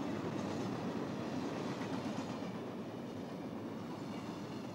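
A train running along the rails, a steady rumble.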